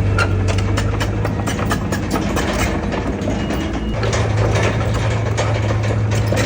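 Heavy diesel earthmoving machine running, with a steady low engine hum and constant metallic clicking and clanking. The engine eases about two seconds in and picks up again about four seconds in.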